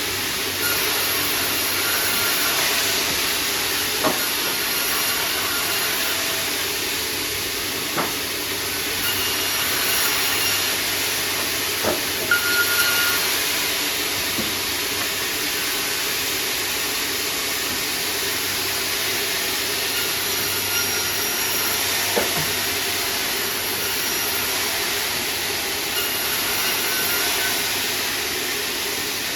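Sawmill saw running steadily with a continuous hissing noise as sengon timber is worked, broken by a few sharp knocks.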